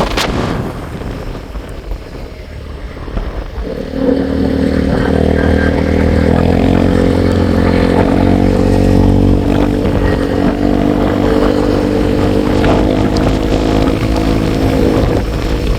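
Motorcycle engine running at a steady throttle with wind on the microphone; about four seconds in the engine grows louder and holds an even pitch.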